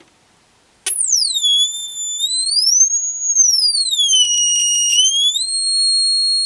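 Electronic tone from a home-built transistor oscillator (astable multivibrator) chirp generator. After about a second of silence there is a click. Then a clear high whistle sweeps down, rises, falls again and settles on a steady high note for the last second or so.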